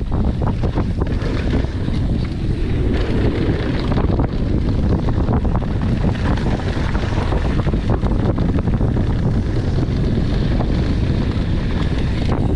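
Wind rushing over the microphone of a camera on a mountain bike riding downhill, over the steady rumble and rattling clicks of the bike and tyres on a rough dirt trail.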